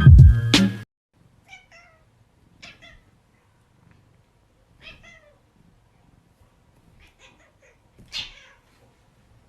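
Loud background music cuts off abruptly just under a second in. After that a cat meows quietly several times, short separate calls a second or two apart, the loudest near the end.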